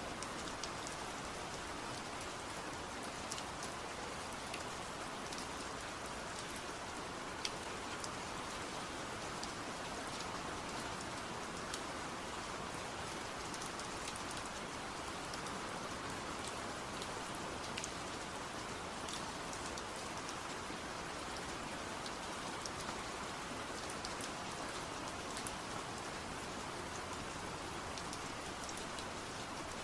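Steady rain falling, an even hiss of rain with scattered drops ticking on a surface.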